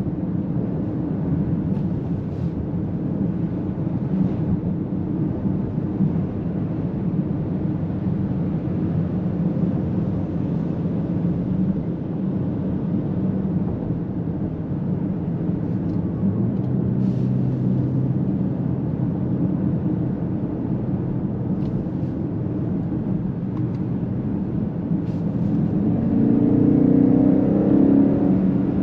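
BMW X7 M60i's twin-turbo V8 heard from inside the cabin, cruising steadily with road noise. Near the end the engine note rises in pitch and gets louder as the SUV accelerates in Sport Plus mode.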